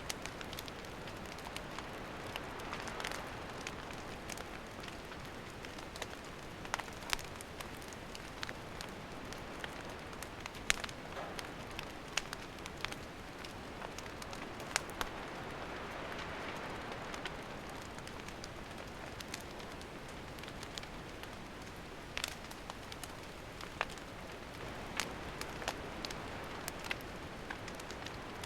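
Wood fire burning: a steady soft hiss with irregular sharp crackles and pops from the burning wood.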